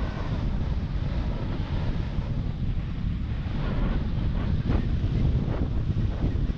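Wind rumbling and buffeting on the microphone of a rider on a wingfoil moving at speed. There is a hiss of water spray, with a few sharper rushes in the second half.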